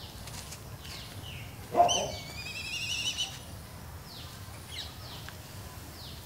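Birds calling: short, high falling chirps about once a second. About two seconds in comes one louder call, a wavering, slightly rising whistle-like tone that lasts about a second.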